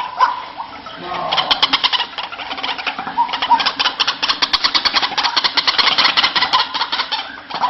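White-breasted waterhen calling: a fast run of harsh repeated notes, about nine a second, that starts about a second in and stops just before the end.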